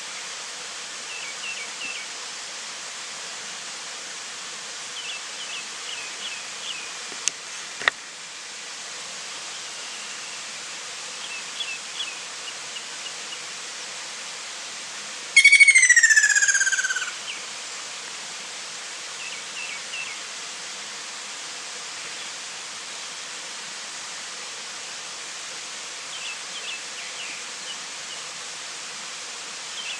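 Ruddy kingfisher giving one loud, falling trilled call about halfway through, lasting about a second and a half. Under it runs a steady hiss of insects, with faint short chirps every few seconds and two sharp clicks about a quarter of the way in.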